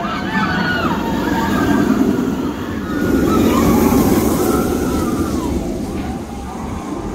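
Outdoor crowd noise of a busy theme-park walkway: a steady hubbub with scattered voices calling out. It swells for a second or so about three seconds in.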